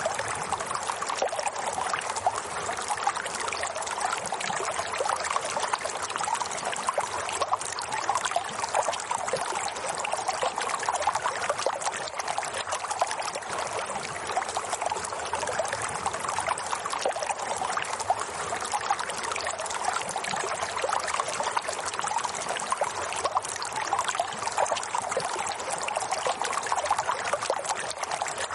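Flowing water trickling steadily, a continuous splashing flow.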